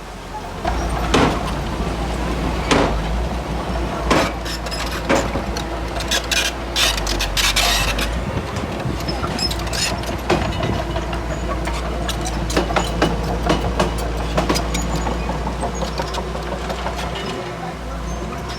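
Bulldozer's diesel engine running steadily with a deep drone, with repeated sharp metallic clanks and knocks from the working machine.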